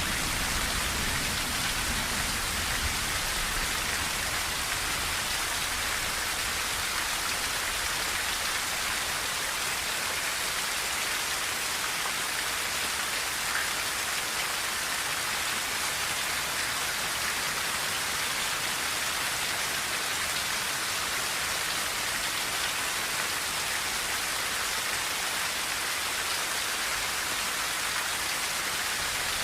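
Steady heavy rain drumming on a tin roof, a dense even hiss of drops. A low rumble dies away in the first couple of seconds.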